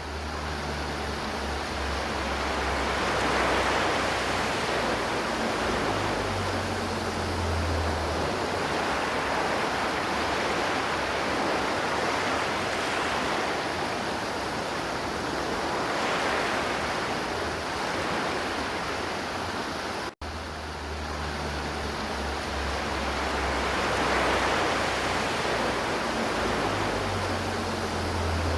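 River water flowing steadily, an even rushing noise. It breaks off for a split second about twenty seconds in.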